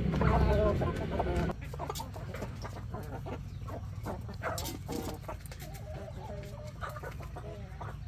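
Chickens clucking, with short ticking clicks around them. A louder low hum at the start cuts off suddenly about a second and a half in.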